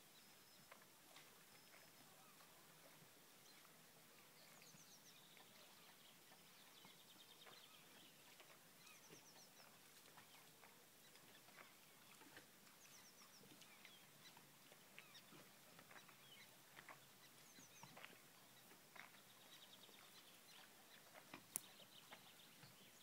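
Near silence with faint birdsong: a distant bird repeats a short, high, descending trill about every four seconds, with lower buzzy trills between. Scattered faint ticks run through it, and one sharp click near the end is the loudest sound.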